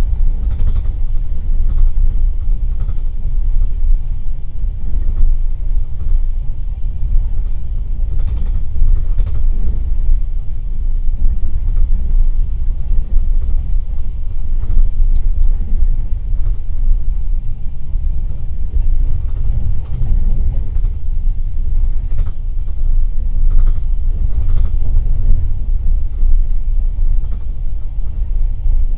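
Express passenger train running along the line, heard from inside a carriage: a loud, steady low rumble with scattered light knocks from the running gear and track.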